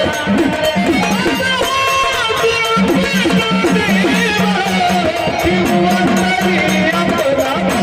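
Marathi folk music: a steady low drone under regular hand-drum strokes, with a melody line sliding up and down over them.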